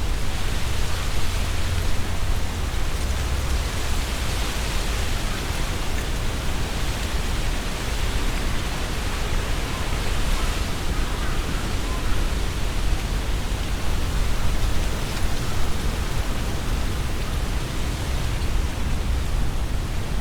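Strong wind gusting through trees, leaves rustling in a steady dense rush. A low rumble of wind buffets the microphone throughout.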